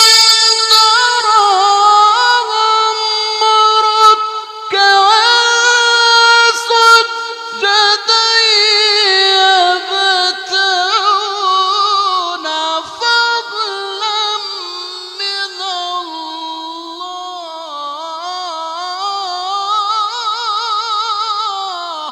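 Mujawwad Quran recitation: the male reciter holds one long ornamented melisma in a high register, the pitch gliding up and down and wavering, fading and cutting off near the end.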